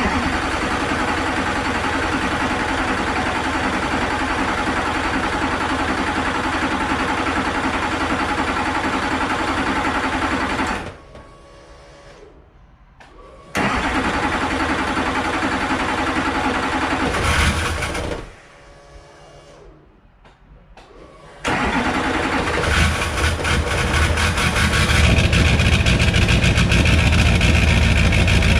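Duramax V8 turbo-diesel being cranked on its first start after a rebuild: about eleven seconds of cranking, a pause, about four seconds more, another pause, then a third attempt about three-quarters of the way in that gets louder toward the end.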